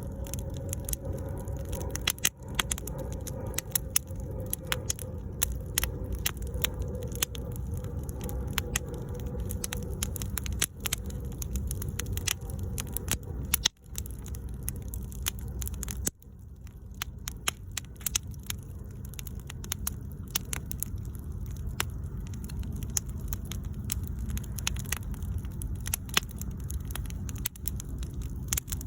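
Bonfire crackling, with frequent sharp, irregular pops over a low steady rush. The sound dips out briefly twice about halfway through.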